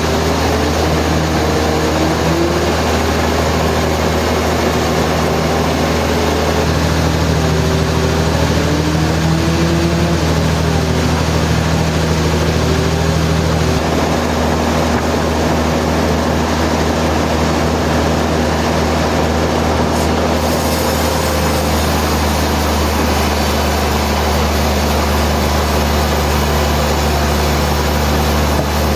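Sawmill machinery running: a loud, steady mechanical drone with a deep hum. A fainter wavering tone rises and falls through the first dozen seconds, and the hum shifts slightly about fourteen seconds in.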